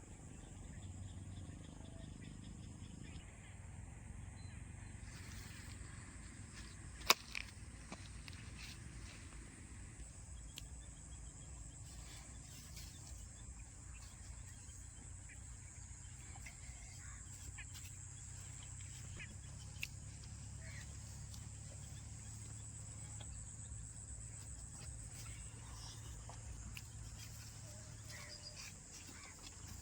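Faint outdoor ambience: a low, steady engine rumble with a thin high insect-like hiss over it. Two sharp clicks are heard, the louder one about a quarter of the way in.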